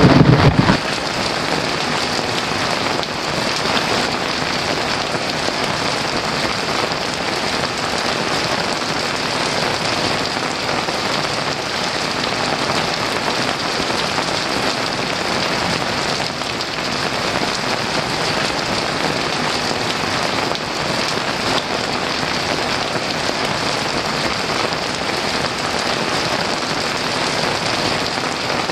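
Heavy rain falling steadily. A low rumble of thunder from just before cuts off abruptly under a second in.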